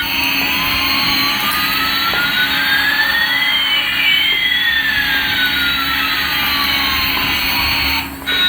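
Jet engine sound effect: a steady rushing noise with one whine rising and another falling at the same time, crossing about halfway, then cutting off suddenly near the end.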